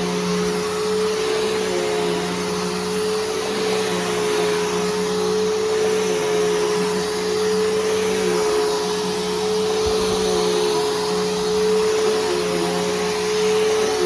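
Bissell Powerforce Helix Turbo upright vacuum running steadily while vacuuming: a constant motor whine over the rush of air.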